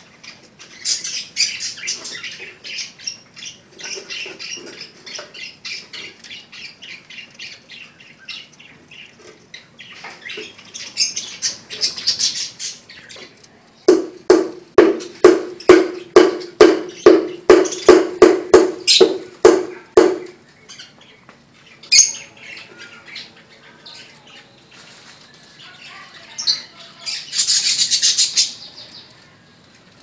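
Birds chirping and calling: busy high chirps at first, then a run of loud rapid pulsed calls, two or three a second, over a steady low note for about six seconds, and a burst of high chirping near the end.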